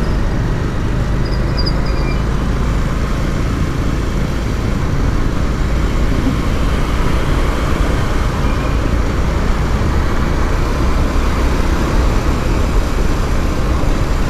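Steady rush of wind and road noise from a moving motorcycle in city traffic, heavy at the low end, with no distinct events.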